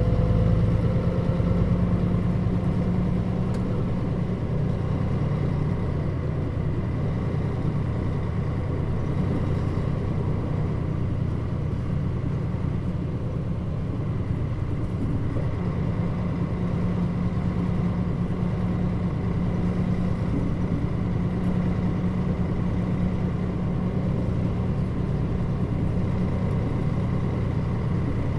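Interior running sound of a Mitsubishi Fuso Aero Star bus (KL-MP35JM-based, Nishinihon body) under way. The engine drones steadily, with a briefly rising whine in the first couple of seconds.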